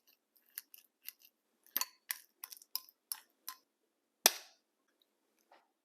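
Kitchen utensil clinking and tapping against a dish, about a dozen quick, sharp strokes with a light ring, the loudest a single strike about four seconds in.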